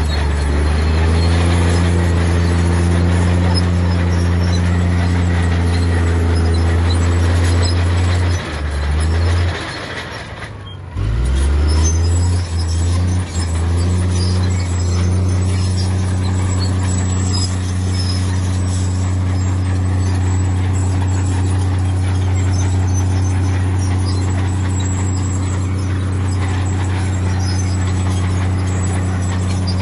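Heavy diesel earthmoving machinery running with a steady low drone. The engine note falls away about nine seconds in and picks up strongly again about two seconds later.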